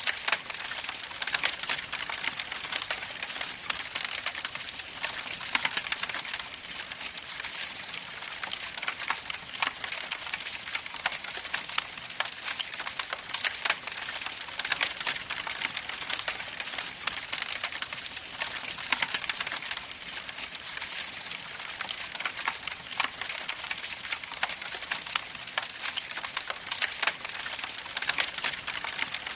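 Wood campfire crackling steadily, with dense irregular pops and snaps over a soft hiss.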